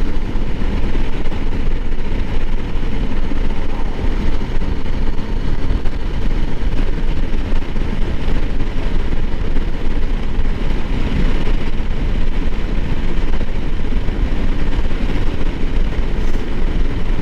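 Honda CRF300L Rally's single-cylinder engine running at a steady cruise while the bike is ridden, mixed with a steady rush of wind noise on the helmet microphone.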